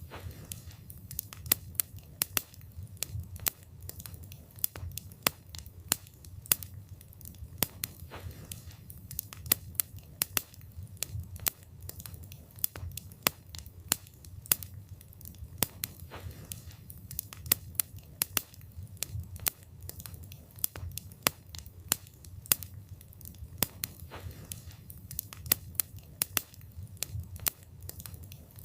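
Wood fire burning with a steady low rumble of flame and frequent sharp, irregular crackles and pops of burning wood.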